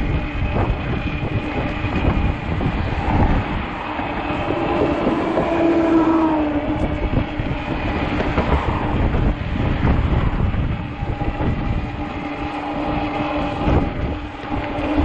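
Wind buffeting the microphone during a ride, with an uneven low rumble and a steady droning hum underneath that wavers slightly in pitch about six seconds in.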